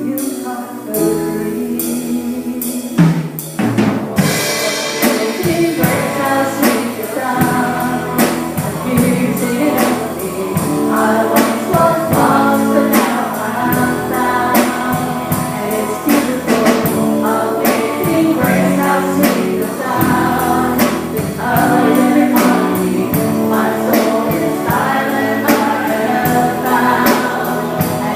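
Worship band and singers performing a gospel-style song, with drum kit and tambourine keeping a steady beat. The full band comes in about four seconds in.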